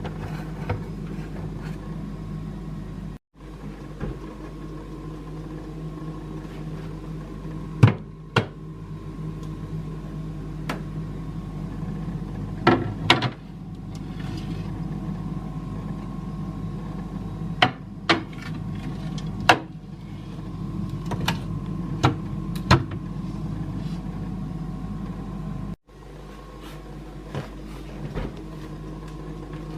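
Scattered sharp clicks and knocks of containers and groceries being handled and set down, over a steady low hum.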